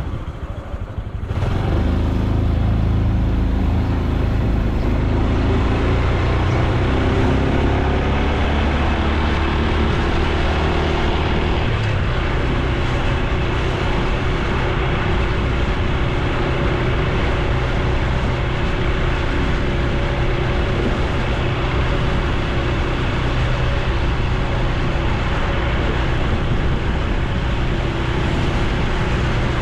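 Honda Super Cub C125's single-cylinder four-stroke engine and exhaust on the move, heard from a bike-mounted camera with wind and road noise. The engine pitch climbs as the bike speeds up, shifts about twelve seconds in, then holds steady at cruising speed.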